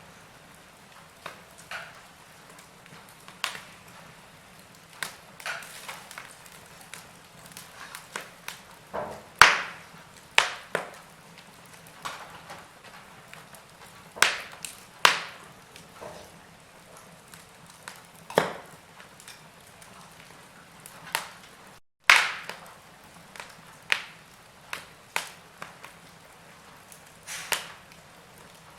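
Log fire crackling: irregular sharp pops and snaps of burning wood over a faint steady hiss, with the loudest pops about a third of the way in and again about three quarters of the way through.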